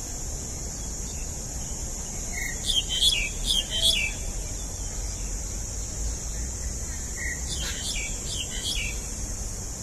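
Small birds chirping in two quick bouts of short, falling chirps, one about two and a half seconds in and another near eight seconds, over a steady high-pitched hiss and a low rumble.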